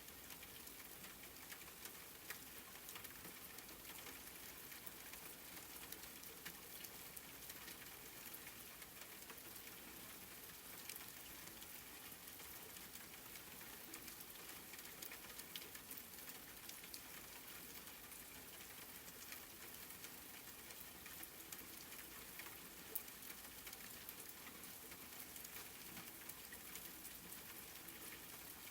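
Steady, soft rain falling on a surface: an even hiss with many separate drops ticking, and one louder drop late on.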